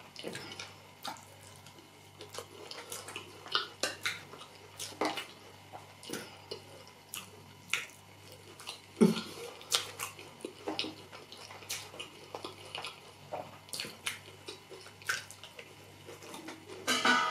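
Close-miked wet chewing and lip smacking on a mouthful of soft rice and beans porridge: irregular wet clicks and smacks, with one louder smack about nine seconds in.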